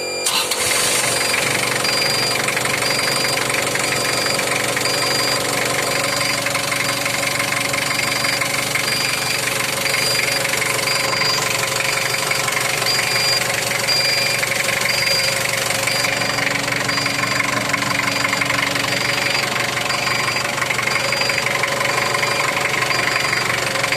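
Four-cylinder Isuzu C240 diesel engine of a VMAX 3-ton forklift, coming on suddenly just after the start and then running steadily with a diesel clatter.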